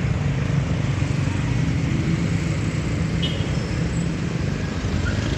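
Steady outdoor traffic noise, a dense low rumble with no distinct events.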